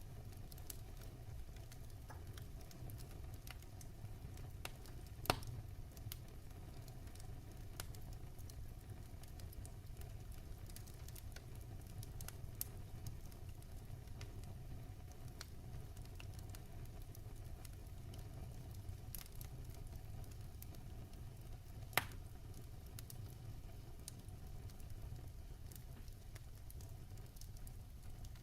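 Wood logs burning in a fireplace: a steady low rumble of flames with scattered small crackles, and two sharper, louder pops, one about five seconds in and one about three-quarters of the way through.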